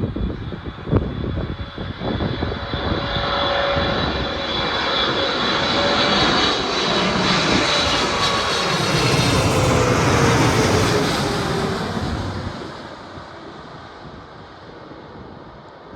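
Boeing 777 freighter's GE90 jet engines on landing approach, passing by: the sound builds to a loud peak with a high whine and a slowly falling tone, then fades away after about twelve seconds. Wind buffets the microphone at the start.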